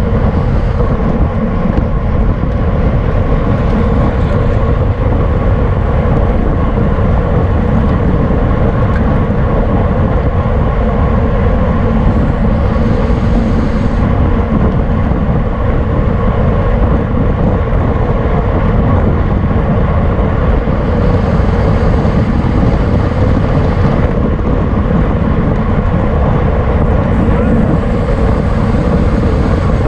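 Steady wind rush over the microphone of a camera riding along on a racing bicycle at speed, with a faint steady hum.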